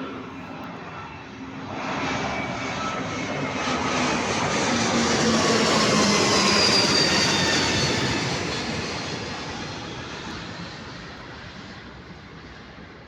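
Airbus A321neo's Pratt & Whitney geared turbofan engines at takeoff power as the jet passes: a roar that builds, peaks about halfway through and then fades, with a whine sliding down in pitch as it goes by.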